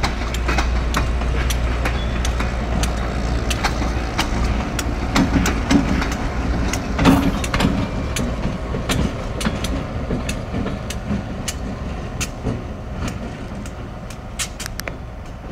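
Passenger train rolling past: steady running noise with many sharp wheel clicks on the rails, and the diesel locomotive's engine passing close about seven seconds in, then slowly fading as the train moves away.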